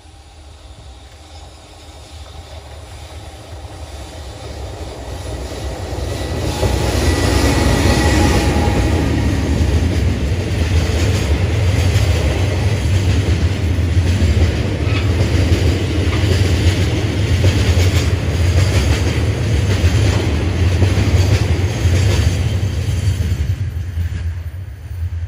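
Freight train of Taki tank wagons hauled by an EH500 electric locomotive approaches and passes close by. A rumble builds over the first several seconds into steady loud rolling, with regular clicks of wheels over the rail joints. It falls away near the end as the last wagon passes.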